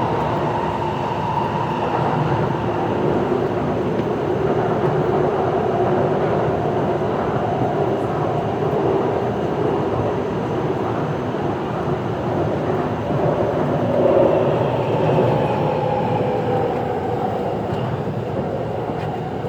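Taipei Metro C341 train running between stations, heard from inside the car: a steady rumble of wheels on track under faint traction-motor tones that drift slightly in pitch, swelling a little about two-thirds of the way through.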